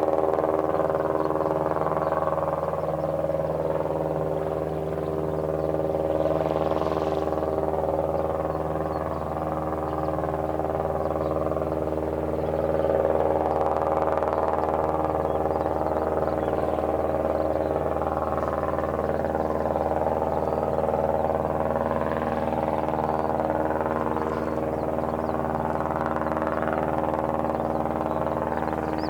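A steady low mechanical hum made of several held tones, unchanging throughout, like an engine or machine running continuously.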